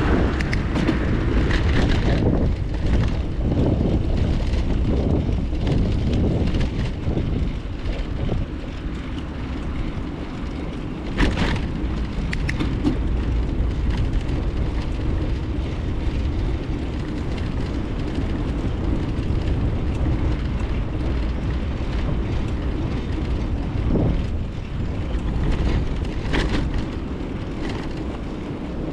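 Wind buffeting an action camera's microphone on a moving bicycle, a steady low rumble mixed with tyre noise, with a few short knocks and rattles from the bike, the clearest about a third of the way in and again near the end.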